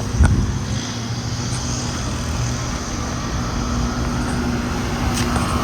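Several outdoor central air conditioner condensing units running: a steady hum from the compressors under the rush of the condenser fans, with a short click about a quarter second in.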